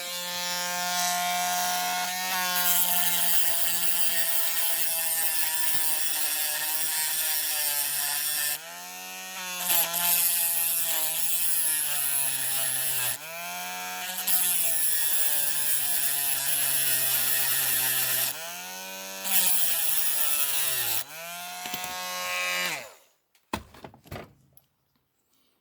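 Small handheld electric power tool, such as a drill or rotary tool, running at high speed. Its pitch sags several times as it bites into the die-cast metal and picks back up, then it stops near the end. It is working the body open around a stuck axle.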